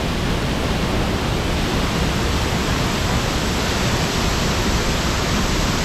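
Thoseghar waterfall's falling water: a loud, steady rush of water with no breaks.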